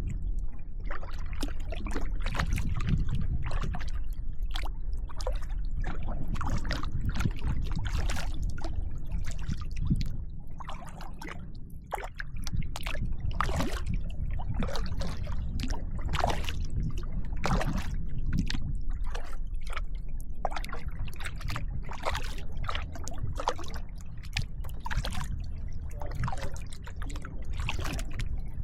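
Kayak paddle strokes: the blades dip and splash and drip water, one or two short splashes a second, over a steady low rumble.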